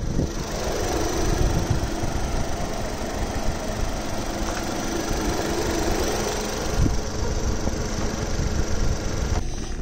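A car engine idling steadily; the sound stops abruptly near the end.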